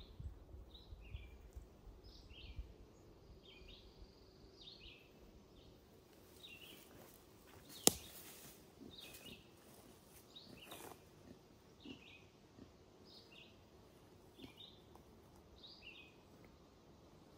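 A bird singing a string of short chirps, roughly one a second, with a single sharp click about eight seconds in.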